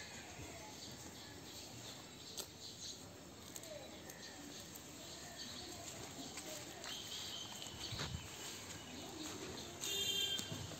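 Faint outdoor ambience with short, high bird chirps, a brighter run of them near the end.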